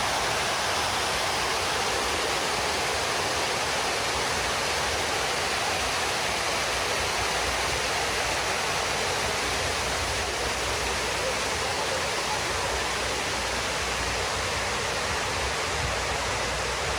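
Water of the 9/11 Memorial reflecting pool falling in a steady, even rush as it cascades down the granite walls into the pool.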